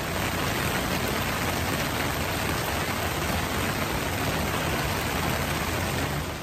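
Heavy rain pouring steadily, a dense even hiss with a low rumble underneath, cutting off suddenly at the end.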